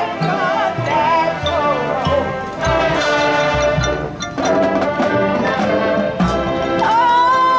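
High school marching band playing: a brass melody over low drum hits and percussion strikes, with a held note near the end.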